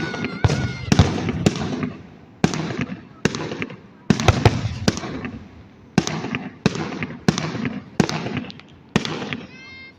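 Aerial fireworks shells bursting in a quick, irregular series of sharp bangs, roughly two a second, each trailing off in a short echo.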